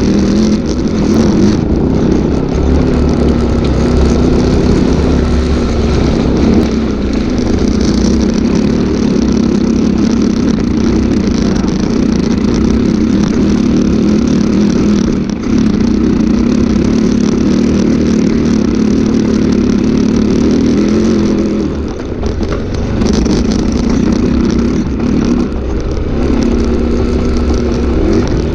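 Enduro dirt bike engine running hard under throttle, heard loud and close. It eases off briefly a couple of times near the end.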